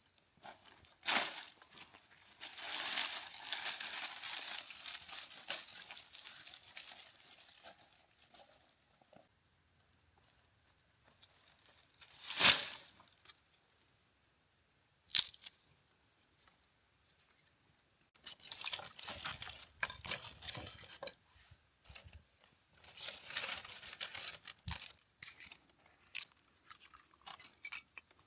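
Rustling, crunching and crinkling from something being handled, in several bursts with quieter gaps, and two sharp clicks in the middle.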